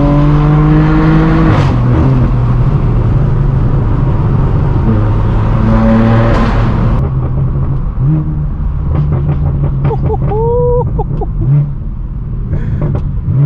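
Straight-piped BMW M4 F82's twin-turbo inline-six accelerating hard, its exhaust note rising in pitch, with a quick DCT upshift about a second and a half in. At about seven seconds the throttle lifts and the exhaust falls to a lower, quieter, steadier note.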